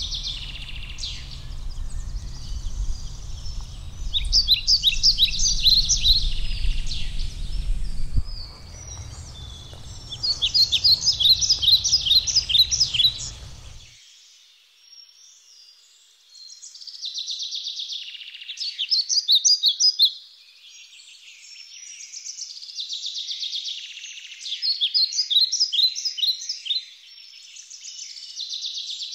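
A songbird singing outdoors: phrases of quick, rapid notes repeated every several seconds, with a low rumble under the first half that cuts off suddenly about halfway through.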